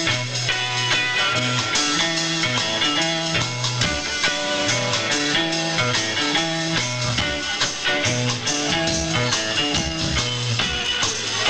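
Band playing live: an instrumental passage of guitar over a bass line, with drums coming in more strongly about halfway through.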